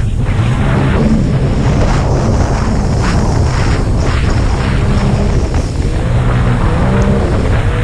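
Racing jet ski engines running at high revs under a loud rushing noise. An engine's pitch climbs near the end.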